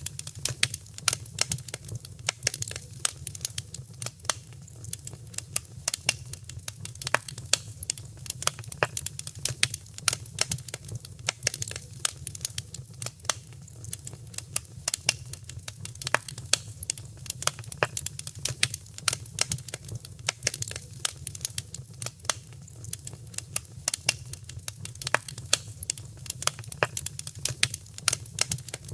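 Wood fire in a fireplace crackling, with a dense, irregular run of sharp pops and snaps over a steady low rumble.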